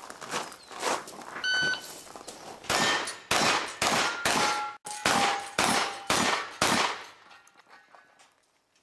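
A shot timer beeps once, then a shotgun fires eight rapid shots about every half second at steel target plates, which clang and ring after the hits.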